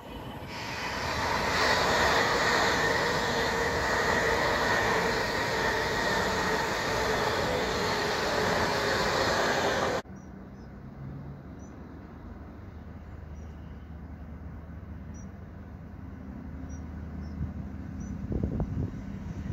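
Class 390 Pendolino electric train passing at speed: a loud steady rush of wheels on rail and air that builds over the first couple of seconds, then cuts off abruptly about ten seconds in. After it, a much quieter low hum of a second train approaching, growing louder near the end.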